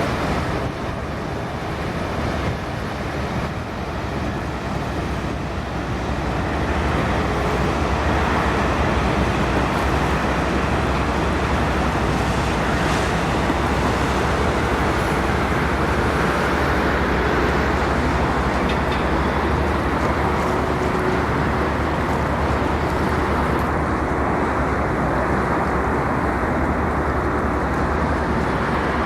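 Steady low engine rumble under a broad hiss, growing louder about seven seconds in.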